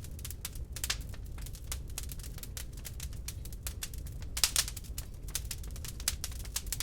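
Wood log fire crackling in a fireplace: irregular sharp pops and snaps over a low steady rumble, with a louder cluster of pops about four and a half seconds in.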